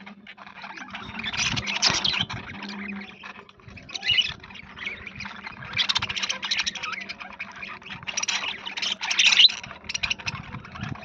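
A flock of budgerigars chattering, a dense mix of scratchy warbles and sharp chirps that swells and falls, loudest about two, six and nine seconds in, over a faint steady hum.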